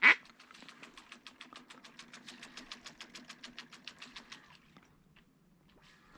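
Duck call blown in a fast, even run of soft clucks, about nine a second, fading out after about four and a half seconds: a feeding chuckle to pull in incoming pintails.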